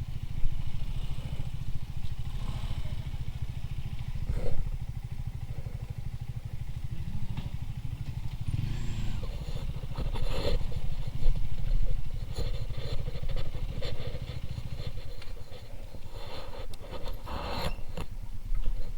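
Motorcycle engine running with an even low beat, with a few scattered clicks and rattles. The beat drops a little about fifteen seconds in.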